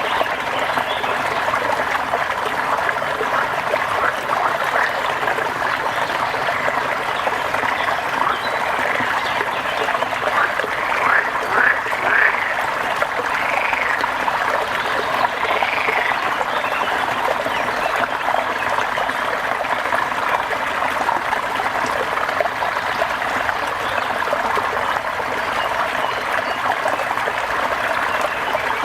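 A dense, steady chorus of frogs calling over a constant wash of water, with a few louder rising-and-falling calls about ten to sixteen seconds in.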